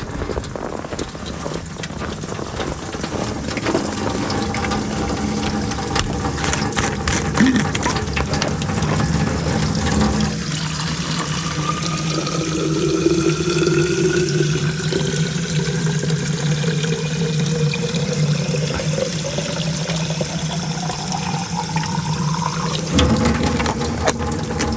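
Liquid pouring into a vessel, its pitch rising slowly as it fills, over a steady low hum.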